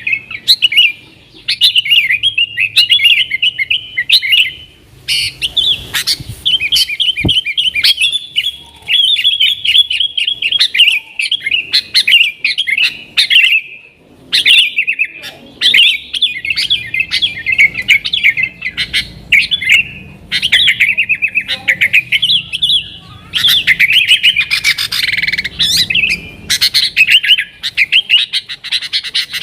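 Yellow-vented bulbul (trucukan) singing energetically in rapid, chattering runs of sharp notes, phrase after phrase with short pauses between them.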